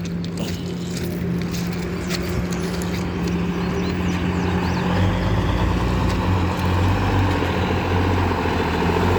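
A truck approaching, its engine and rumble growing louder about halfway through, over a steady low hum.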